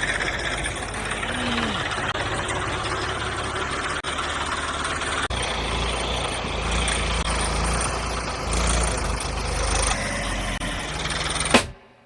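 An engine running steadily at idle, cutting off abruptly near the end.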